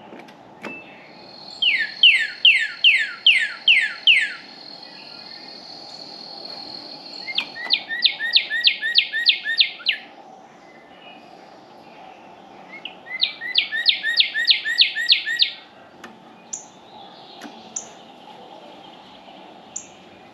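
A songbird singing three loud phrases of rapidly repeated whistled notes. The first phrase is a run of notes that each fall sharply in pitch, and the next two are quicker trills. A few short single chirps follow near the end.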